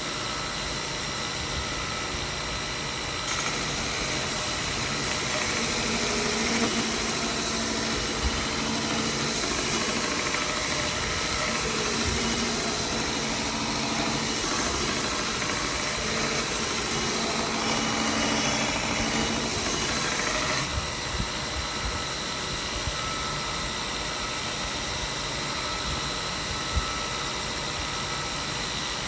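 Belt grinder running with a ceramic abrasive belt while a drawknife's edge, held in a jig, is ground to a new bevel to take out the scratches. It gets louder, with an added low tone, from about three seconds in until about two-thirds of the way through, while the blade is on the belt.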